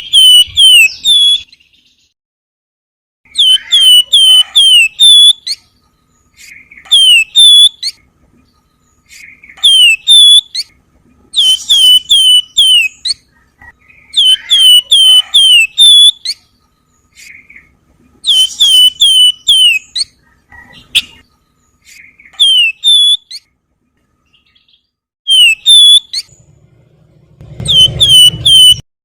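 Wergan Jawa (flamboyan) songbird singing its 'nyiul' whistled song: phrases of three to six quick, high, down-slurred whistles, repeated in bursts with short pauses between. A low buzz comes in near the end.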